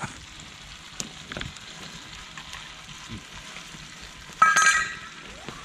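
Food sizzling in a pan, with a few light clicks and a short metallic clatter of a utensil against the cookware about four and a half seconds in.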